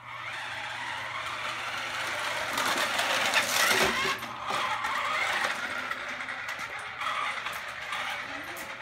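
Remote control truck running as it drives, a noisy mechanical whir with rattling that starts suddenly and is loudest about three to four seconds in.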